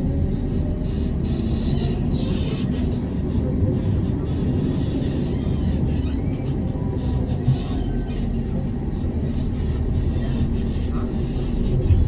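Tram running along the rails, heard from inside the car: a steady low rumble with a faint electric motor whine, and a few short high wheel squeals about halfway through.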